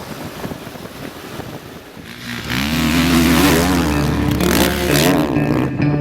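Motocross dirt bike engine revving up and down, coming in loud about two seconds in after a quieter rushing noise.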